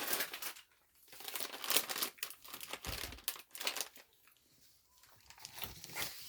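Plastic snack packaging crinkling and rustling as it is handled, in irregular bursts with short pauses.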